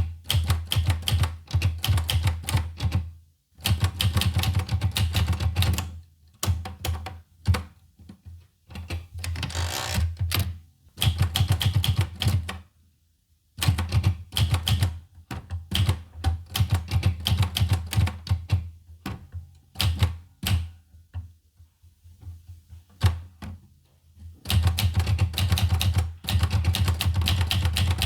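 Olivetti Lettera 25 portable typewriter being typed on: quick runs of key strikes in bursts, broken by several short pauses, with a brief rasp about ten seconds in.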